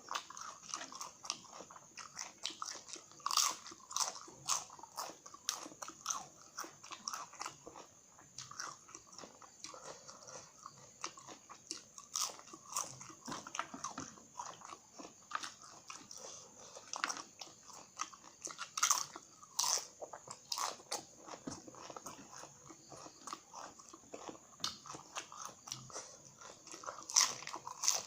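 Cassava chips being bitten and chewed, with irregular sharp crunches throughout.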